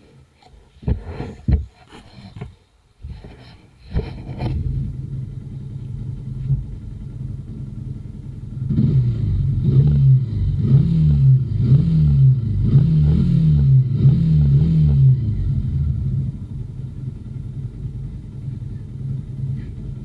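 Yamaha Fazer motorcycle engine: a few knocks, then the engine starts about four seconds in and idles. It is revved in a series of quick throttle blips through the middle, then settles back to a steady idle.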